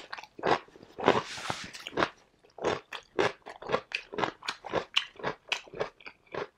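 Close-miked chewing of crunchy raw cucumber, a steady run of wet crunches about three a second.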